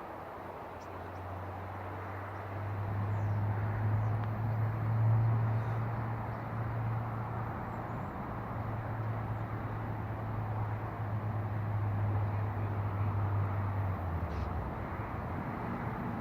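A steady low engine hum over outdoor background noise, starting about a second in and cutting off near the end.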